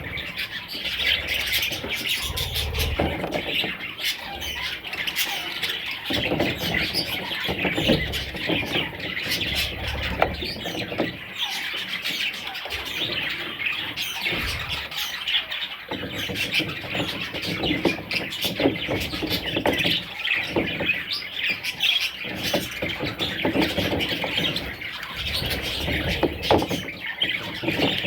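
Budgerigars chirping and squawking without pause, many short overlapping calls. Now and then there is a low rumbling underneath.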